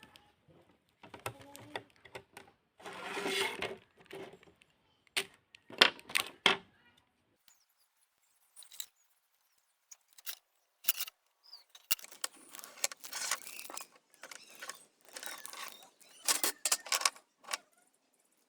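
Irregular clicks, taps and short scraping sounds of small hard objects being handled, with a few seconds of quiet in the middle.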